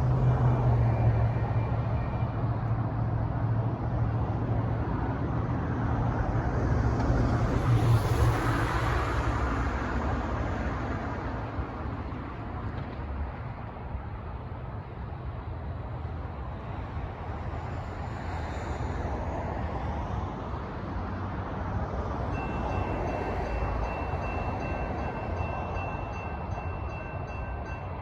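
CAF light rail train running past on the rails with a steady low hum and wheel-on-rail noise, loudest about eight seconds in and then easing off. In the last few seconds the steady ringing tones of a railroad crossing bell come through clearly.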